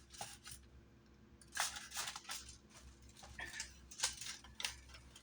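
Paper letter crinkling and rustling as a Yorkie puppy chews and worries at it: a string of short, crisp crackles, mostly from about one and a half seconds in to near the end.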